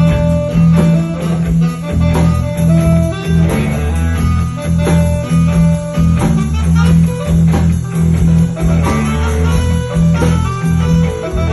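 Live band playing an instrumental passage, guitars over a steady bass line and drums.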